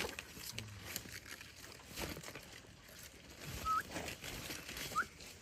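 Two short rising chirps from a bird, about a second apart in the second half, over scattered knocks and rustling.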